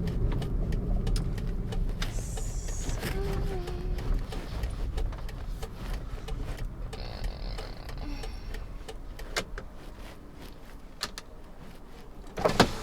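Car cabin noise while driving: a low road and engine rumble that eases off as the car slows, with scattered light clicks and a louder short noise near the end.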